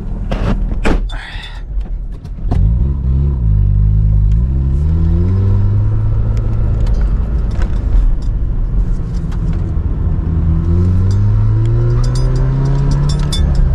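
A few knocks from a car door being opened and shut, then the car's engine starts about two and a half seconds in and revs up. It settles into a steady run, and the revs climb again near the end.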